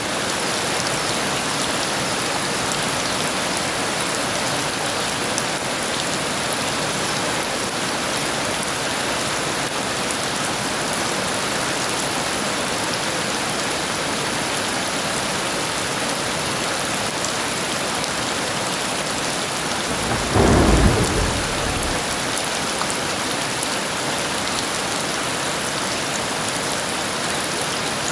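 Heavy rain falling steadily, with a short thunderclap about twenty seconds in.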